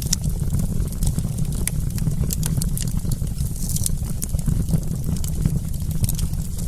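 Wood campfire crackling: scattered sharp pops and snaps at irregular moments over a steady low rumble.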